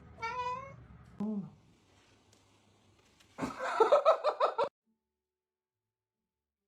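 A person laughing in short choppy bursts for about a second, a little past the middle. Before it come a brief high wavering call and a short falling one.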